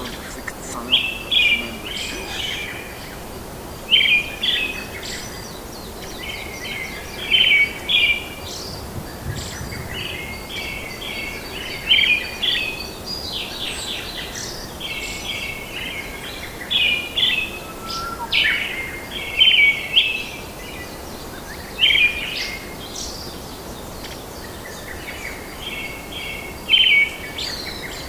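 A songbird repeating a short, chirping phrase every couple of seconds, over a steady background hiss.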